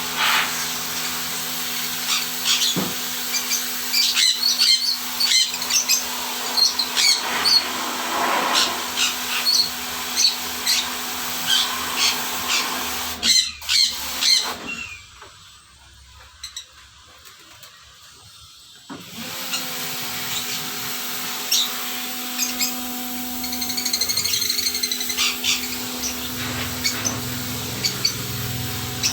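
Electric pressure washer running steadily, its motor humming under the hiss of the spray. It cuts out for about four seconds midway, then starts again. Pet birds chirp throughout.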